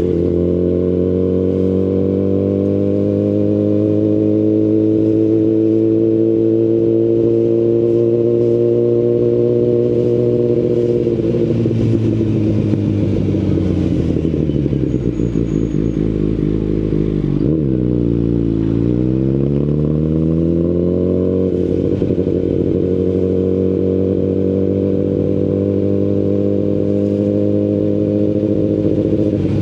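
2019 Kawasaki Ninja ZX-10RR's inline-four running through an Akrapovic Evolution carbon full exhaust system. It cruises at fairly steady revs that creep up for about ten seconds, then eases off so the pitch falls. It drops sharply to its lowest about seventeen seconds in, then rises again as the bike pulls away and settles back to a steady cruise.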